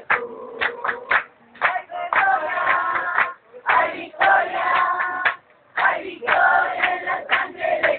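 A crowd singing a worship song together with rhythmic hand clapping, in phrases broken by brief pauses.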